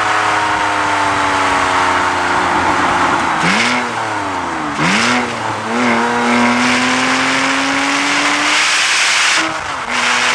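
Porsche Cayman S's 3.4-litre flat-six running through a Carnewal GT aftermarket exhaust. The revs sag slowly, then dip sharply and climb back three times in quick succession, then rise steadily under acceleration before dropping again near the end.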